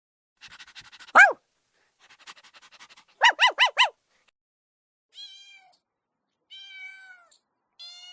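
A cat meowing repeatedly: a rasping call ending in a falling note, a quick run of four short calls, then three drawn-out meows that fall in pitch.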